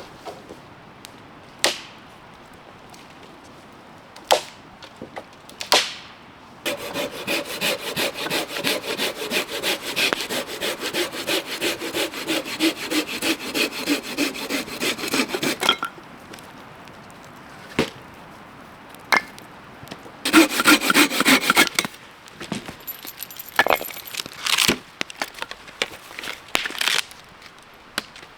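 Hand saw cutting dry, dead wood in quick, rhythmic back-and-forth strokes for about nine seconds, then a shorter run of strokes a few seconds later. Scattered single knocks of wood come before and between the runs.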